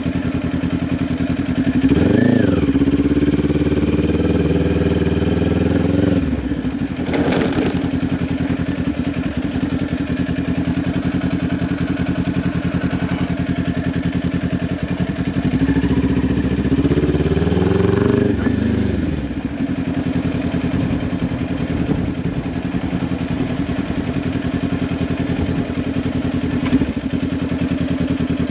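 Kawasaki Ninja 400's parallel-twin engine through a Leo Vince LV10 slip-on exhaust, running steadily at low revs. The revs rise about two seconds in and again around sixteen seconds, then fall back to the steady note. A brief rushing noise comes about seven seconds in.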